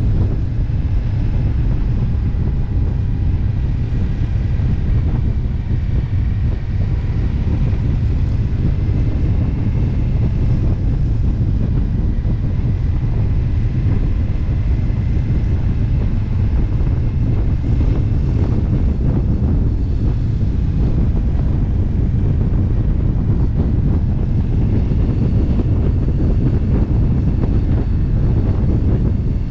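Motorcycle riding at steady road speed, heavy wind rumble on the microphone over the engine and tyre noise.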